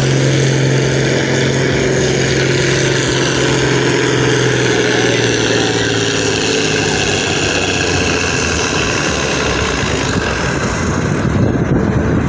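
Farm tractor engine running loudly. Its steady note fades after about five seconds into a rougher, noisier engine sound.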